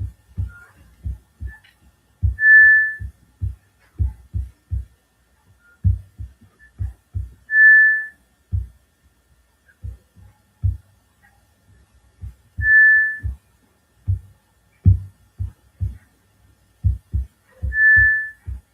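A short, steady high whistle-like tone, repeated four times about five seconds apart, over irregular low thumps like a slow heartbeat.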